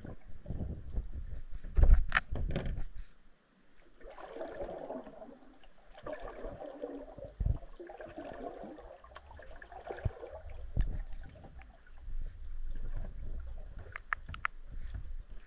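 Underwater recording of a deep lake: irregular low rumbling and knocks, the loudest knock about two seconds in, then a stretch of bubbly burbling from about four to ten seconds in.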